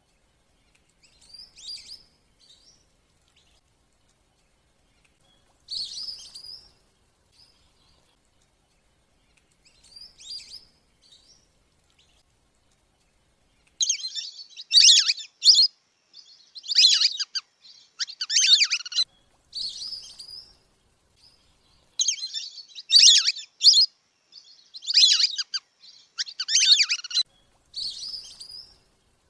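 Belibis kembang (wandering whistling duck) lure recording of high whistled calls. A few scattered calls come in the first half, then a dense, loud run of repeated whistles from about halfway in until near the end.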